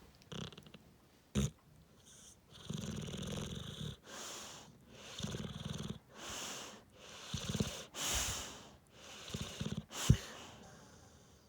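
Dog snoring, loud: rattling snores alternating with airy breaths, about one breath every two seconds. There is a short sharp sound about a second in and a louder one near the end.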